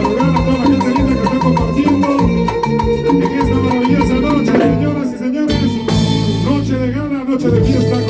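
Salsa band music playing, with bass, percussion and melodic instruments; the sound of the band changes about five seconds in.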